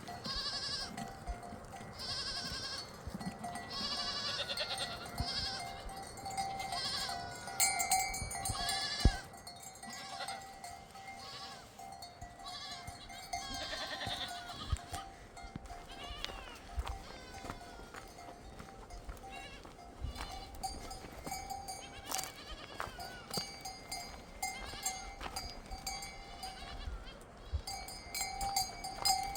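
A flock of sheep and goats bleating again and again, the calls coming thickest in the first half. Livestock bells clink throughout.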